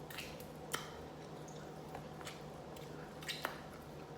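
Close-up eating sounds of someone chewing beef short rib meat off the bone: wet smacking and squishing, with a few sharp clicks, the loudest about three quarters of a second in and another near the end.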